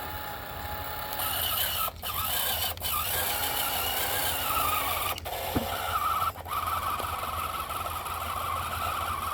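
Homemade mini tractor's motor and drive running under load with a steady high whine that shifts in pitch and grows stronger about halfway through, broken by a few brief dropouts.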